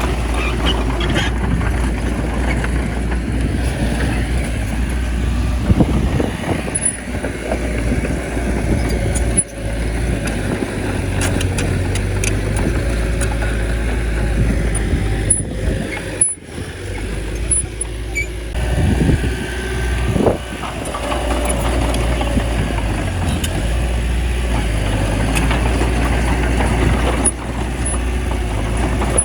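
Diesel engine of a small crawler bulldozer running steadily while it works pushing soil, with scattered mechanical clicks and a few brief drops in the sound.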